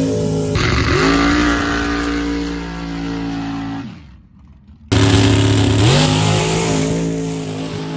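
Engine revving: a steady pitched drone that rises in pitch twice, broken off by abrupt cuts with a short near-silent gap about halfway through.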